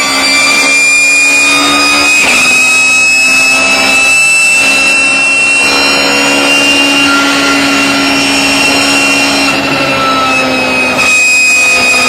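BMW E36 race car running hard, its engine note carrying a high, steady whine from the straight-cut gearbox. The whine's pitch slowly rises, then eases off near the end.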